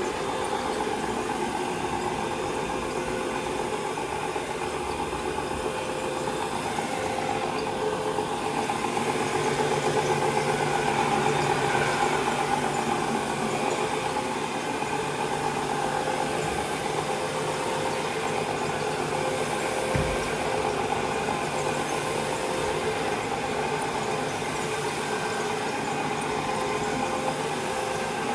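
Vacuum cleaner running steadily over carpet, with the steady noise of a power washer in the background. One brief low thump about two-thirds of the way in.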